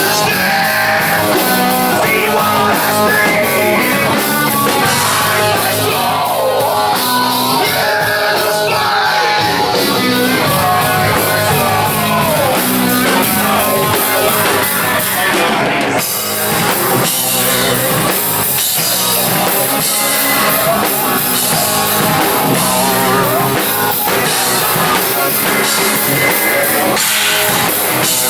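Live heavy rock band playing loud, with electric guitar and a pounding drum kit, and a brief break in the sound about halfway through.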